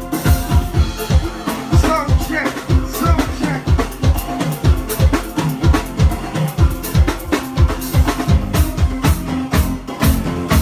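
A live band playing uptempo soca music, a drum kit driving a steady beat of kick drum and snare.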